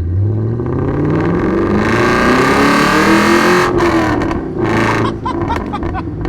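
Straight-piped 2005 Ford BA XR8 ute's 5.4-litre Boss 260 V8 accelerating hard, its exhaust note rising for about three and a half seconds. Then the throttle cuts off suddenly and the exhaust crackles and pops for a second or so before dropping back to a lower, steadier note.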